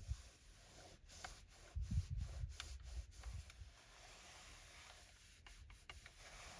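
Microfiber cloth rubbing and wiping over a car's interior surfaces, with a few sharp clicks and soft low knocks from handling as it goes.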